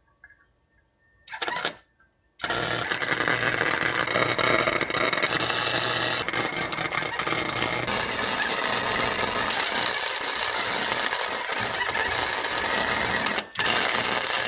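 Welder arc crackling steadily on an exhaust pipe, starting about two and a half seconds in and breaking off briefly near the end.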